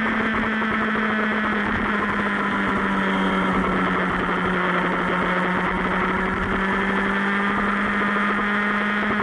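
Superbike engine running at steady cruising revs, its note dipping slightly in pitch partway through and then holding.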